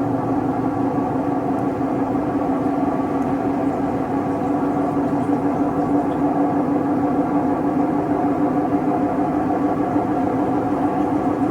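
Siemens WM14T490 front-loading washing machine with its drum running steadily and a loud, even droning hum of several tones over a rumble. This is the sign of a damaged drum bearing.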